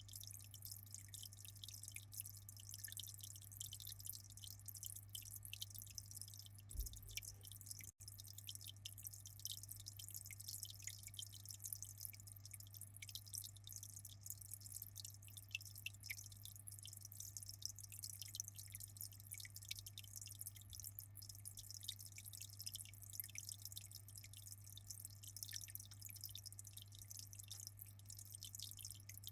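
Aquarium water dripping and trickling in a fast, continuous patter of small drops over a steady low hum.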